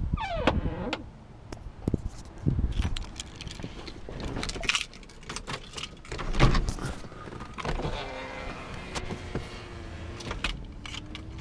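Someone getting into a car and handling it: a falling creak about half a second in, then scattered knocks and thumps and keys jangling. The engine is not running.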